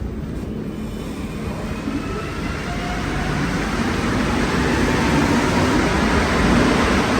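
Montreal Metro rubber-tyred train running through the station, its rumble building, with a faint rising whine from the train's motors.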